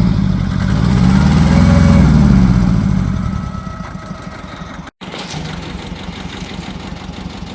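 Tractor engine working under load while towing, its pitch rising and falling twice, then easing to a quieter, steady running about three seconds in, with a brief cut near five seconds.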